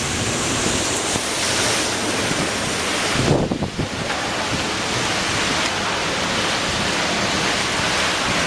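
Storm-force wind gusting and buffeting the microphone: a steady, loud rushing noise. About three seconds in, the hiss briefly drops while a low rumble of buffeting rises.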